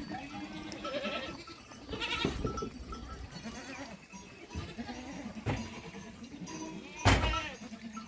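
Sheep and goats bleating, several wavering calls one after another, the loudest near the end.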